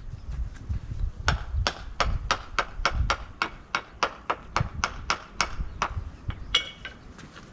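A paver being tapped down tight into its glued spot: a quick, even run of sharp taps, about three a second, lasting several seconds. A single ringing clink follows near the end.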